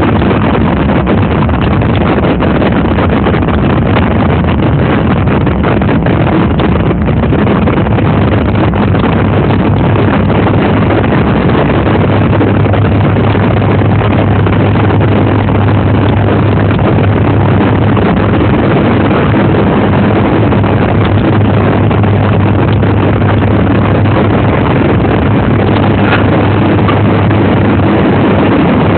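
A steady, loud engine drone under heavy rushing noise, with a low hum that grows stronger about ten seconds in.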